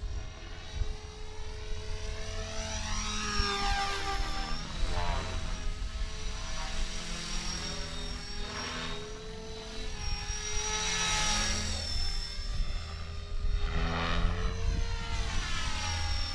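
Blade 330X electric RC helicopter in flight, its motor and rotor whine sweeping up and down in pitch several times as it passes and changes speed, over a low rumble.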